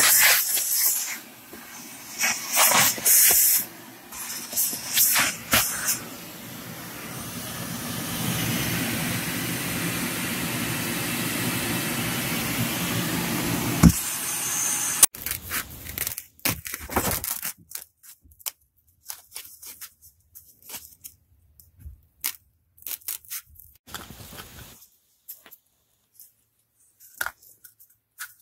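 Hands-on work noises from replacing a truck's cupholder pad: scratchy, hissing scrapes and tearing at first, then a steady rushing noise for several seconds, then scattered small clicks and taps of parts being handled and fitted.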